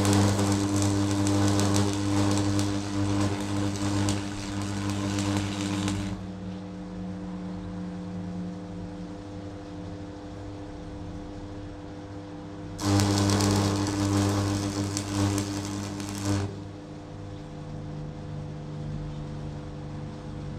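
DeWalt electric hammer running under test in two bursts, the first lasting about six seconds and the second about three and a half seconds, starting some thirteen seconds in. A quieter steady hum goes on between the bursts.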